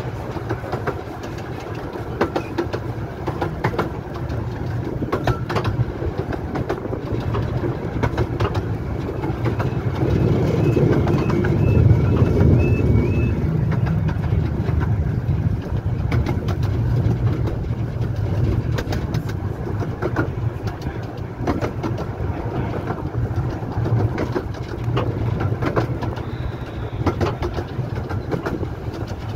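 A 15-inch-gauge Romney, Hythe and Dymchurch Railway train running along the line: a steady rumble with the clicks of wheels over rail joints, a little louder about ten to thirteen seconds in.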